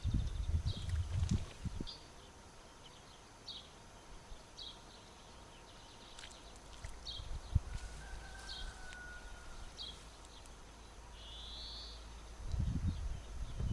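A songbird giving short high chirps, roughly one every second, over quiet open-air background. Low rumbling, like handling or wind on the microphone, fills the first couple of seconds and returns near the end.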